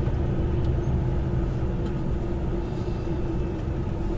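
Truck engine running steadily, a constant low rumble with a steady hum, heard from inside the cab.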